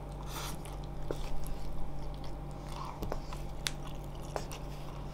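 A mouthful of spicy Samyang carbonara instant noodles being chewed, with wet mouth clicks and smacks scattered through.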